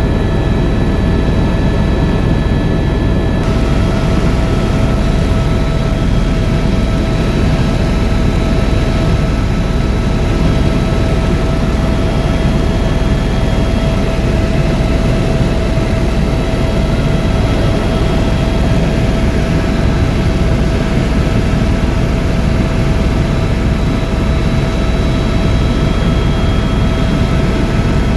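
Tour helicopter in flight: a steady, loud rumble of rotor and engine noise with a constant high turbine whine, heard from inside the cabin. The whine tones shift slightly about three seconds in.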